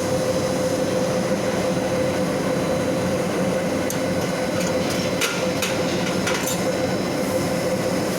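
Factory production-line machinery running: a steady mechanical din with a constant hum, and a few sharp clicks or knocks about halfway through.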